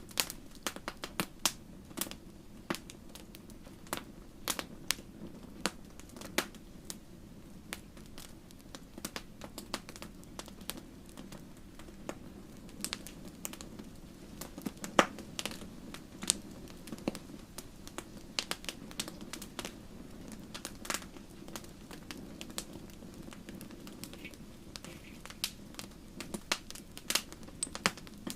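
Wood fire in a fireplace crackling, with irregular sharp pops several times a second over a steady low rumble of flame.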